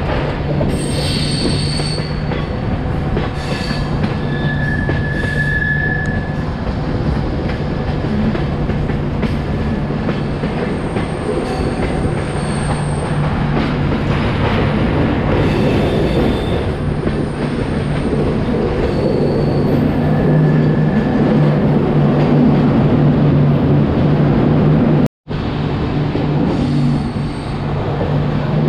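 Indian Railways express train running over the rails, heard from on board, with a steady rumble and hum. Several times, high-pitched wheel squeal rises and fades as the wheels grind through curves on the ghat section. The sound drops out for an instant near the end.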